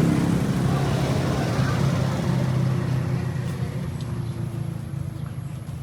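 A motor vehicle's engine running with a steady low hum that grows steadily fainter, as it moves away.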